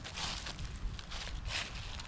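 Footsteps rustling through undergrowth outdoors: a few soft scuffs over a low, steady rumble.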